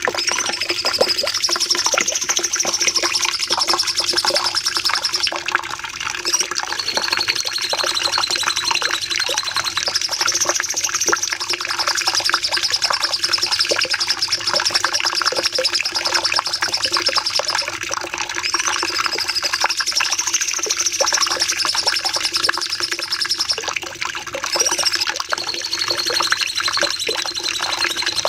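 Cucak cungkok singing a long, unbroken run of rapid chirps and trills, with a high wavering whistled phrase that keeps recurring over it, above a steady low hum.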